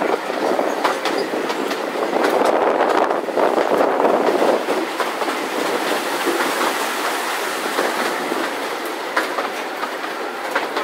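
Narrow-gauge railway carriage running along the track, heard from an open window: wheels clicking irregularly over rail joints over a steady running noise, loudest from about two to four and a half seconds in.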